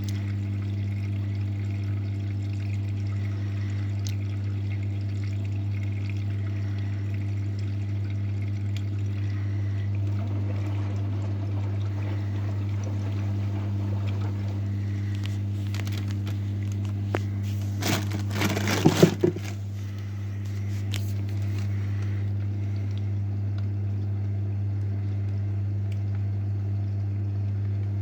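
AEG front-loading washing machine in its wash cycle: water pouring and sloshing in the drum over a steady electric hum from the machine. About eighteen seconds in comes a short cluster of louder knocks or splashes.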